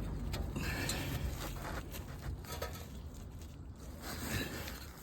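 Scraping and rubbing with scattered small clicks as a metal exhaust bracket and its rubber hanger are forced by hand onto a car's exhaust.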